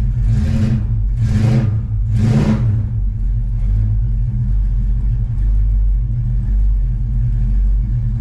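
Dodge Dart's engine running at a steady idle, revved briefly three times in the first three seconds before settling back.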